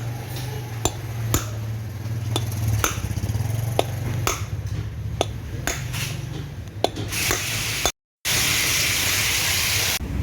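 Light metal-on-metal taps, roughly one to two a second, over a low steady hum: hammer blows on a car's wheel hub and bearing parts. After a cut about eight seconds in, a loud steady hiss takes over.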